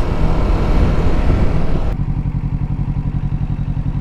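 Kawasaki Ninja 650 parallel-twin engine running under wind noise; about two seconds in, the wind noise drops away and the engine settles into a steady, even low pulsing, as when the bike slows to a stop and idles.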